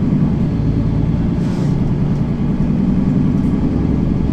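Mercedes-Benz Citaro facelift city bus's engine running steadily as the bus drives between stops.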